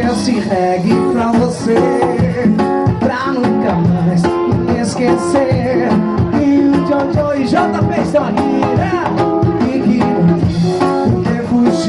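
A small band playing live music with guitar and a steady beat.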